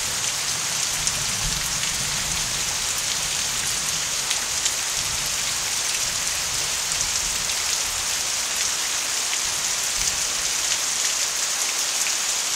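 Heavy rainstorm: a steady downpour, with the sharp ticks of single drops landing close by.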